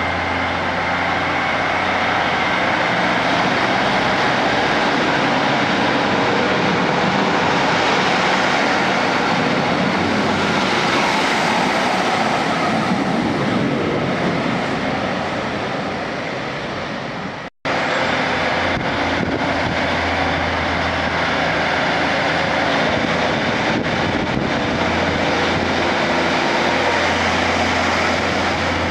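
Class 156 diesel multiple unit running at the platform: a loud, steady mix of its underfloor diesel engines and wheels on the rails, with a low hum underneath. An abrupt break about two-thirds through, after which the noise resumes as the carriages run past close by.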